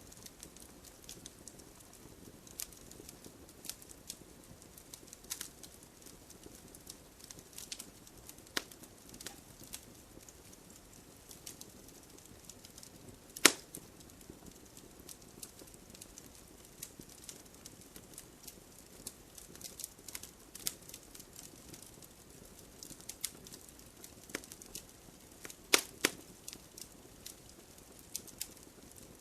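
Wood fire burning, with scattered sharp crackles and pops over a low steady rush of flame; a few pops stand out loud, one about halfway through and a pair near the end.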